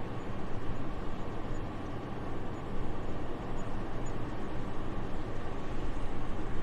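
Soft, steady winter wind: an even, airy rush, strongest in the low end, that swells and eases only slightly.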